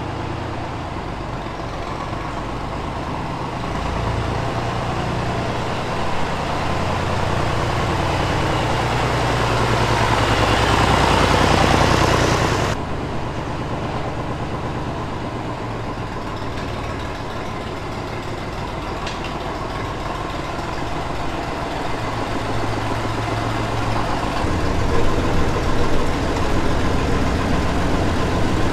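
Vintage tractor engine, the old 35, running as it works. The sound swells to its loudest about twelve seconds in, then drops abruptly and carries on steadily, growing louder again near the end.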